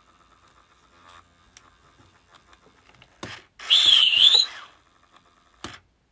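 Interactive Gizmo toy giving a brief high, warbling call through its small speaker, with a click just before it and another click near the end.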